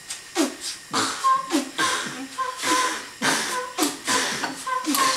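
A rhythmic percussion beat, beatbox-like: sharp hits about two to three a second, many with a quick falling pitch, and short ringing tones between them.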